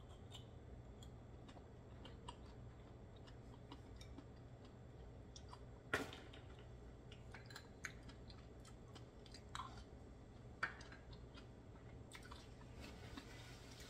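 Faint close-miked chewing of a raw oyster: soft wet mouth clicks and smacks. A sharp clack of an oyster shell against the platter comes about six seconds in.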